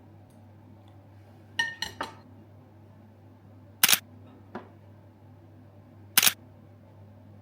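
Kitchen handling sounds: three quick ringing clinks of dishes or glassware, then two loud, sharp clacks a couple of seconds apart, with a lighter tap between them. A steady low hum runs underneath.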